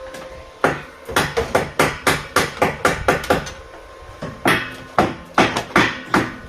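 Rapid hammer strikes, about four a second, in two runs with a pause of about a second between them.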